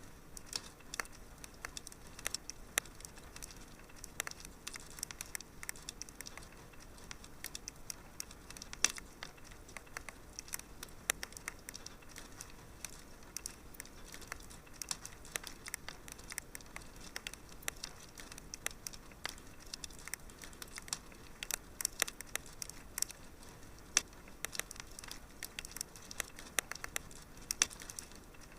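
Wood fire crackling in a fireplace: a soft steady hiss under frequent sharp, irregular pops and snaps.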